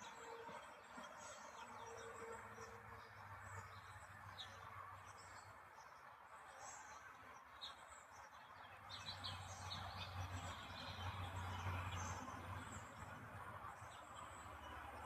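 Small birds chirping and twittering, many short high calls throughout, over a steady background hiss. A low rumble swells twice, loudest in the second half.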